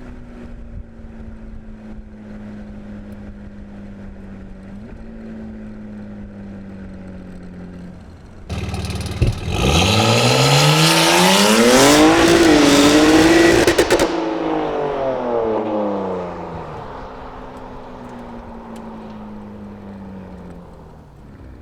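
BMW G80 M3's twin-turbo inline-six, through a full titanium Valvemaster exhaust, idling and then launching hard from a standstill: a sudden loud burst about eight seconds in, a steep rising rev, a short dip at the upshift, then a second rise. The engine note then falls away gradually as the car lifts off and moves away.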